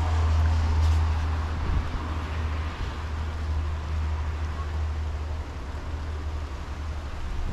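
Rolling thunder: a deep low rumble, loudest in the first second or two and slowly dying away.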